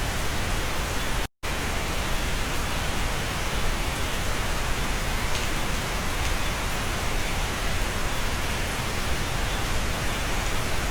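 Steady rain heard from inside a cabin, an even dense hiss with a few faint drip ticks. The sound cuts out completely for a split second about a second in.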